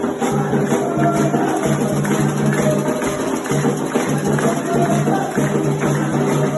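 Candomblé ceremonial music for Xangô: a jingling percussion rhythm over long held tones.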